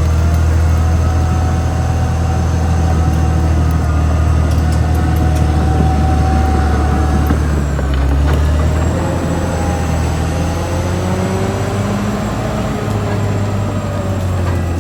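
Caterpillar D6R XL bulldozer's diesel engine running steadily under load, with thin whining tones sliding up and down above it. About eight seconds in the engine note drops and settles lower.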